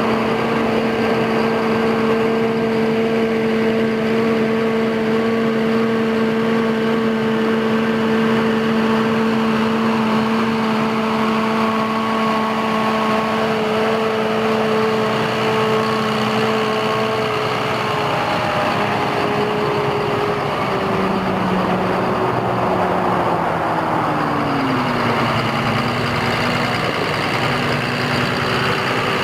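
John Deere 7200R tractor's diesel engine running steadily at a raised speed, then slowing: about two-thirds of the way through its pitch steps and slides down to a lower, steady speed.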